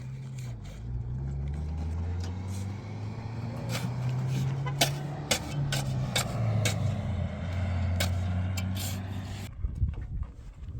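A motor vehicle's engine running, its pitch shifting up and down, with a series of sharp knocks and rattles over it; the engine sound cuts off near the end.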